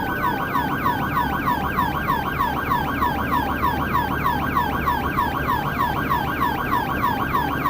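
Police car siren in fast yelp mode, its pitch sweeping up and down about four times a second, over steady low engine and road rumble.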